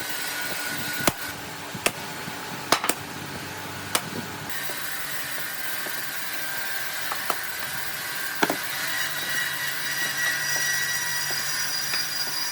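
Woodworking machinery running steadily in a workshop, with sharp knocks of wooden pieces being handled, several in the first few seconds and a couple more later.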